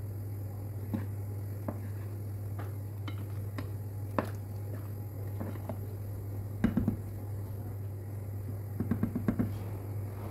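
Kitchen utensils clinking and knocking against pots and glass during strawberry jam making, with a quick run of about five taps near the end, over a steady low hum.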